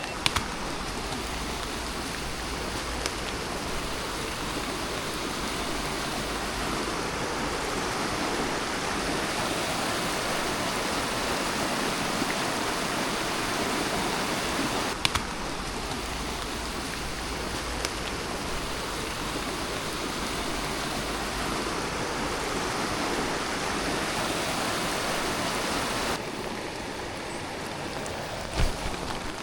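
Steady heavy rain falling, an even hiss with a few faint knocks and clicks; the hiss eases slightly near the end.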